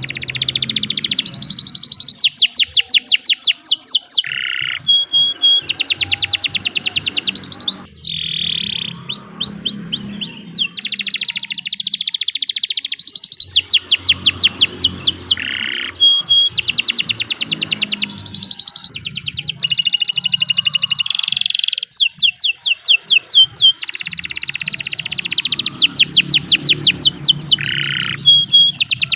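Domestic canary singing a long, continuous song: fast trills of rapidly repeated notes alternating with whistled phrases, broken by short pauses.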